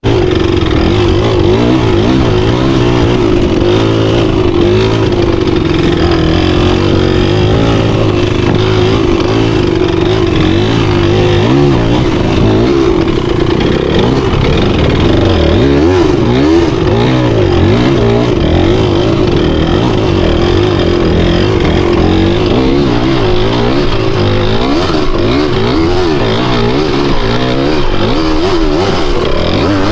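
Dirt bike engine running continuously, its revs rising and falling again and again under the throttle.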